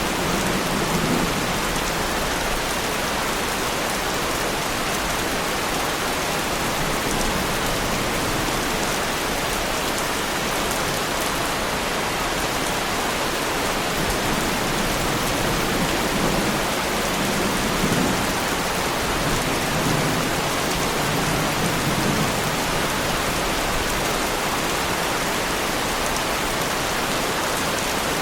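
Heavy rain falling steadily on a Lamborghini Huracán, with low rumbles of thunder about a second in and again around the middle.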